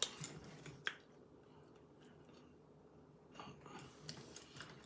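Faint eating sounds in a quiet small room: a sharp click at the start and another about a second in, then soft chewing and breathing noises near the end.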